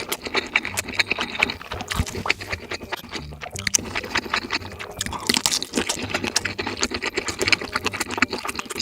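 A person eating spicy black bean noodles close to the microphone, chewing and slurping in a dense, irregular run of clicks and smacks.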